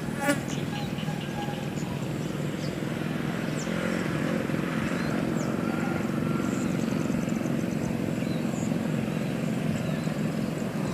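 Steady low rumble of a passenger train's diesel locomotive and coaches running on the rails as the train moves away, swelling slightly about four seconds in. Faint bird chirps sound above it.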